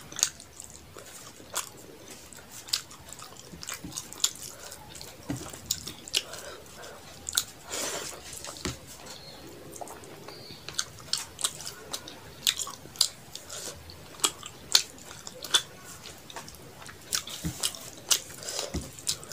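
Close-miked chewing and wet mouth sounds of a person eating rice and fish curry by hand, with frequent irregular sharp lip smacks and clicks.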